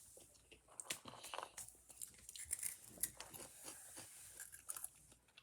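Someone chewing Cheetos, a faint run of small crunches and crackles.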